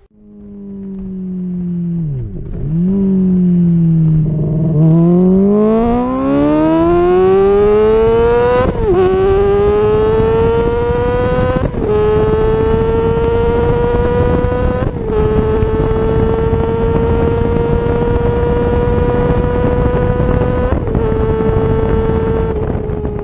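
Honda CBR600RR inline-four with a Two Brothers Black Series slip-on exhaust, accelerating hard. The engine note dips, then climbs steadily in pitch. It drops briefly and climbs again at each of four upshifts.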